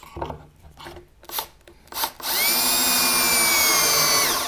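Cordless drill boring a pocket hole through a Kreg pocket-hole jig into plywood: a loud, steady whine for about two seconds, after a few handling knocks as the drill is set in the jig. The pitch sags, then drops as the drill winds down near the end, its battery going flat.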